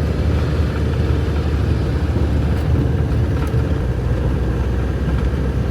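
Steady low rumble of a campervan driving, heard from inside the cabin: engine and road noise.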